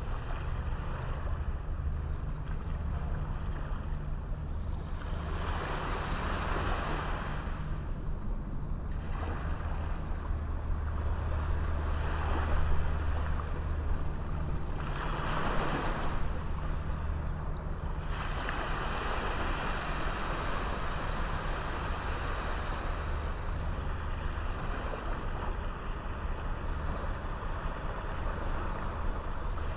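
Small sea waves breaking and washing up a beach, coming in surges a few seconds long, over a steady low rumble of wind on the microphone.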